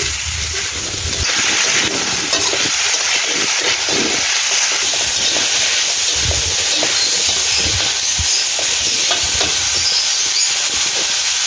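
Mixed vegetables sizzling steadily in hot oil in a steel wok as they are stir-fried, with the spatula now and then clicking and scraping against the pan.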